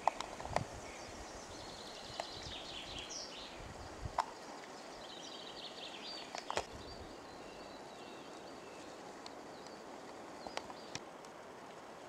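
Small songbirds singing short, rapid trilled phrases, two of them in the first half, over a steady background hiss. A few sharp clicks and knocks break in, the loudest near the start.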